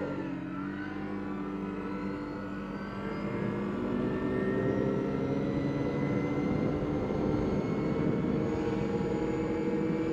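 CFMoto CForce 800 ATV's V-twin engine accelerating, its pitch rising over the first few seconds and then holding fairly steady at speed.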